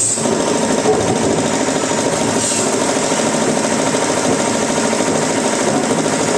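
Wood-processing machinery running steadily with a fast, even mechanical rattle.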